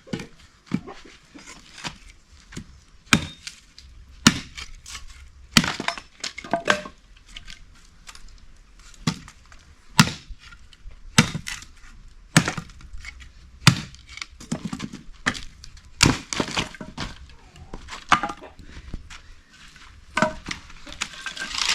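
Repeated sharp chops on wood, irregular, about one a second, with some strokes louder than others.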